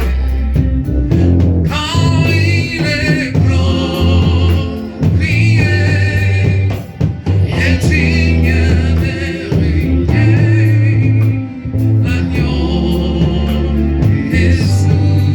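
Gospel worship music: singing with a vibrato lead line over a steady bass and band backing.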